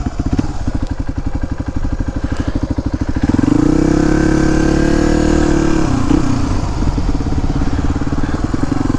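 Suzuki DR250S single-cylinder four-stroke engine through a Dominator R aftermarket exhaust, running at low revs, then opened up about a third of the way in for two to three seconds before the throttle is rolled off and it drops back to low revs.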